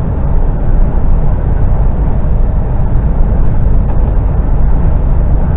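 Articulated lorry's diesel engine and road noise heard inside the cab while driving, a steady low rumble.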